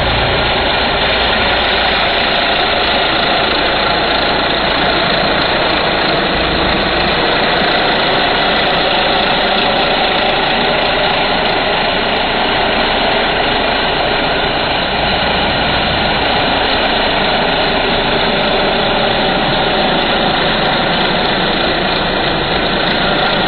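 Pressure washer engine running steadily, a loud, even drone with no break or change in speed.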